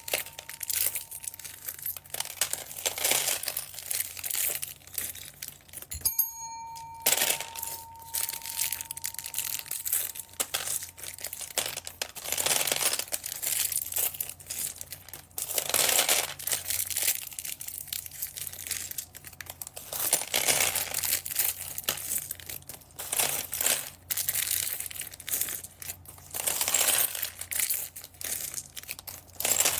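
Small plastic bags crinkling and rustling in irregular bursts as they are handled and opened, with a brief pause about six seconds in.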